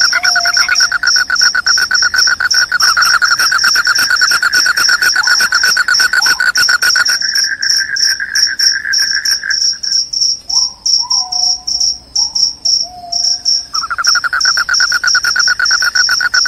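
Crickets chirping loudly: one fast, high-pitched pulsing song runs steadily, while a lower trill drops out about two-thirds of the way through and comes back near the end. A few short calls that drop in pitch sound in between.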